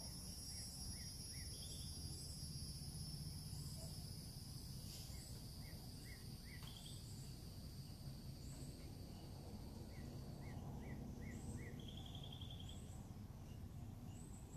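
Faint outdoor nature ambience: small birds giving short, scattered chirps over a steady high insect drone, which partly drops out about two-thirds of the way through, with a low background rumble underneath.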